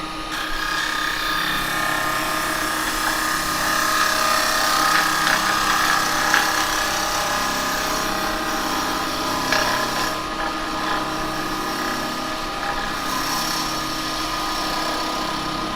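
Axminster wood lathe running while a spindle gouge cuts a spinning bowl of wet cherry: a steady motor hum under a hissing, scraping cut that swells and eases.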